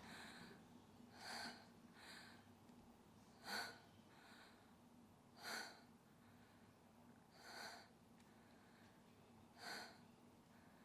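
A person's sharp, noisy breaths, a strong one about every two seconds, some followed by a softer one, over a faint steady hum.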